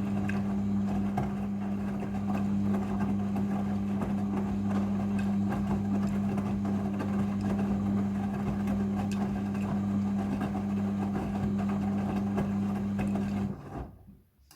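Midea front-loading washing machine running its rinse cycle: a steady mains-frequency hum from its pump or valve over rushing water. It cuts off about a second before the end.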